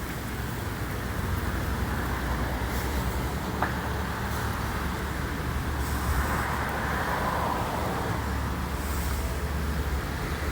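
Motorcycle running at a steady road speed: a constant low engine drone under a wash of wind and road noise.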